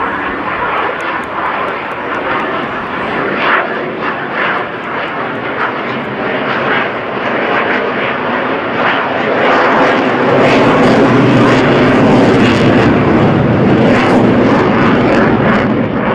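Saab Gripen E fighter jet flying past, its F414 turbofan giving a continuous jet rush that grows louder and deeper about two-thirds of the way in and eases slightly at the end.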